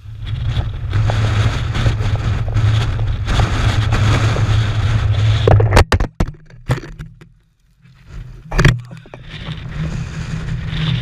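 Strong wind buffeting the microphone, a loud rumbling roar that cuts off abruptly about six seconds in. After a near-silent gap, a short gust hits about eight and a half seconds in, and the rumble picks up again from about nine seconds.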